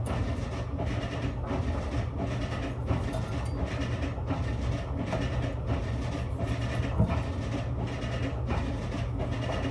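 Pestle pounding in a mortar, an even rhythm of dull strokes a little under two a second, as the moist ingredients of a Lao thum salad are mashed.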